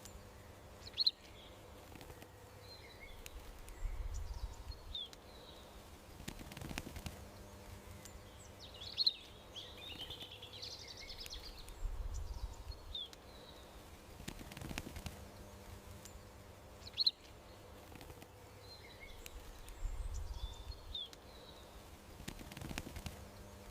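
Small songbirds chirping in garden ambience: short high chirps every few seconds over soft low rumbles, the same pattern repeating about every eight seconds as in a looped nature-sound track.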